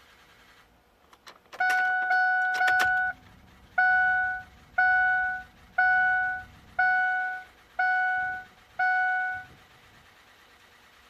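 Ignition key clicking and keys jangling, then the truck's dashboard warning chime: three quick tones back to back, then six more about a second apart, as the key is cycled on in a Ford 6.0 Powerstroke truck after an injector swap.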